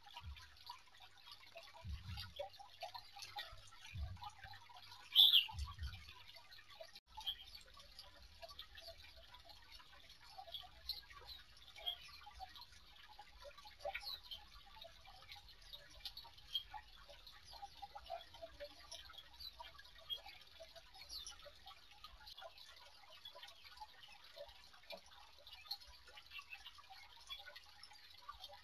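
Birds in an aviary giving many faint, short high chirps scattered throughout, among small ticking sounds, with three low thumps in the first six seconds.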